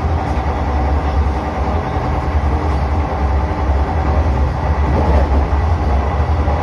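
Vande Bharat Express electric trainset running at speed, heard inside the driving cab: a steady low rumble with an even rushing noise over it.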